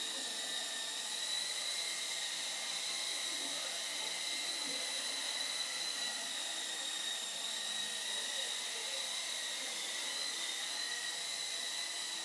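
Steady high-pitched whine of a small motor, holding an even pitch throughout.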